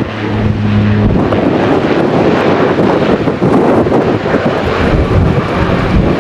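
Jet airliner passing at close range, its engine noise loud and broad, with strong wind buffeting the microphone. A low steady hum in the first second gives way to the louder jet noise.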